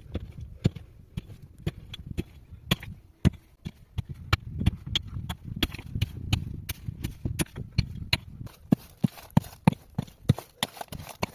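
Irregular sharp knocks and clacks, about two to three a second, over a low rumbling noise that fades near the end.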